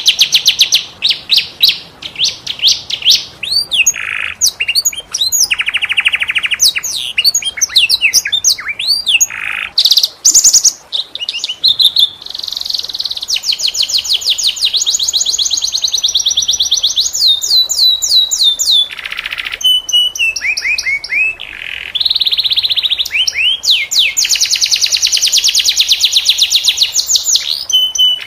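Domestic canary singing a varied song: long, fast trills of rapidly repeated notes broken up by short phrases of sweeping rising and falling notes.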